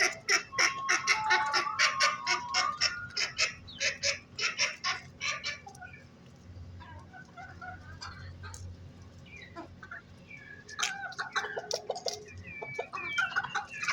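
Chickens clucking and calling: a fast run of short calls over the first half, sparser calls after that, and a fresh flurry of calls near the end.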